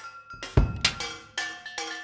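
Junk-metal percussion: struck pieces of resonant scrap metal ring at several different pitches, mixed with dry hits on non-resonant metal, in a quick, uneven run of strikes.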